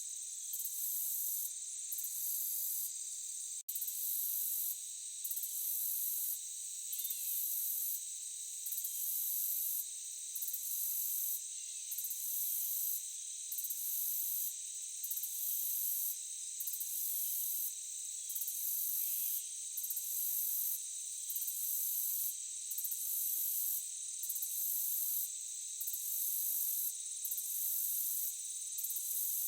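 Night insect chorus: a steady high buzzing with a higher trill that pulses on and off in even beats a little over a second apart.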